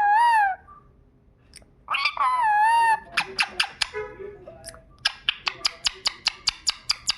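Pet parrot giving two wavering, squawky calls, then a fast run of sharp clicks, about five or six a second, through the second half.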